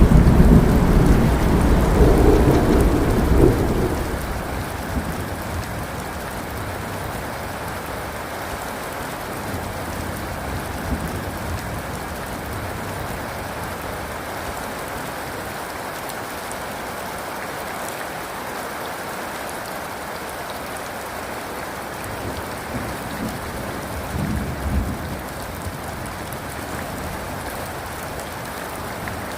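Steady heavy rain falling, with a rolling rumble of thunder over the first few seconds that fades out, and a fainter, shorter rumble near the end.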